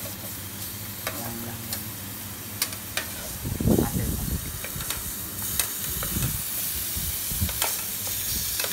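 Ham slices frying in a shallow nonstick pan on a portable gas stove: a steady sizzle, with scattered clicks of metal forks against the pan as the slices are turned.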